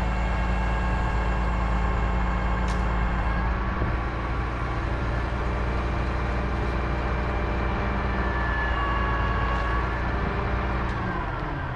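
Heavy diesel engine running steadily at an even speed, with a faint high whine coming and going near the end.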